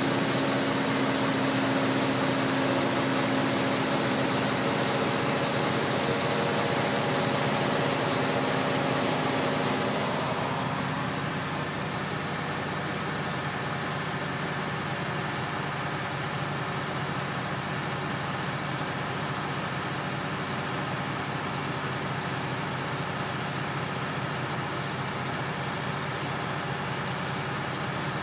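A heavy engine running steadily. About ten seconds in it eases to a lower, quieter running note and stays there.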